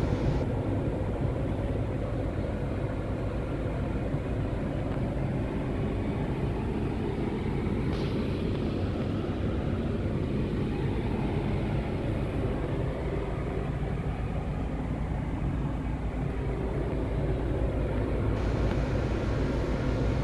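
1995 Mitsubishi Pajero's engine idling steadily, heard from inside the cabin.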